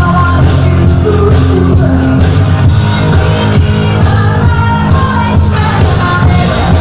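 Loud live performance of a disco-pop song: a singer over a band with heavy bass and a steady dance beat, echoing in a large room.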